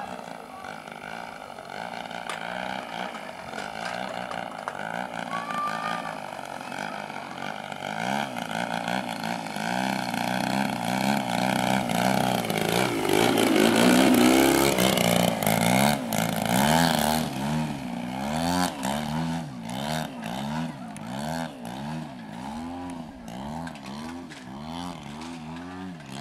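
Gasoline engine of a 35% scale Hangar 9 Extra 300 radio-control aerobatic plane running through 3D manoeuvres, its pitch rising and falling with throttle and passes. It is loudest around the middle, then swoops up and down in pitch about once a second through the second half.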